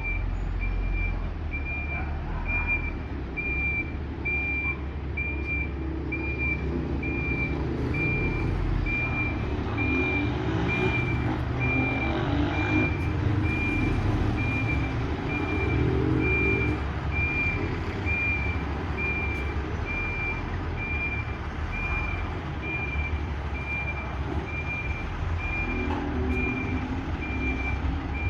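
A truck's reversing alarm beeping: one high tone repeating at an even pace as the truck backs up. Underneath it the truck's diesel engine runs steadily, rising in level for a few seconds around the middle and again near the end.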